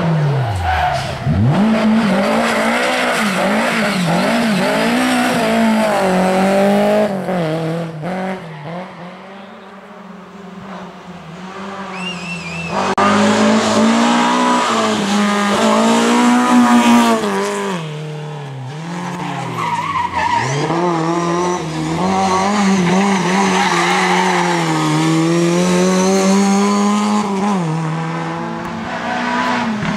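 Lada rally car engines revving hard through corners. The pitch climbs and drops again and again as the drivers accelerate, lift and change gear, with tyres squealing. The sound falls away about ten seconds in, then comes back up loud.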